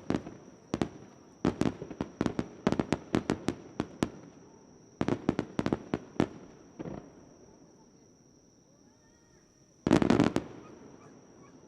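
Fireworks crackling overhead: clusters of sharp cracks in quick succession. A lull of about two seconds is followed by a dense burst of cracks near the end.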